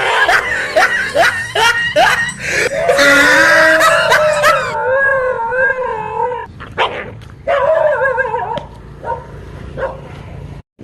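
A dog barking and yelping in quick succession, then letting out long wavering howls, with a few short barks after and quieter toward the end. The dog is reacting to a fake tiger.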